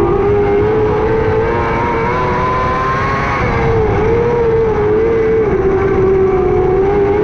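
600cc micro sprint car's motorcycle engine running at high revs on track, its pitch wavering and dipping briefly twice as the throttle is eased and picked up again.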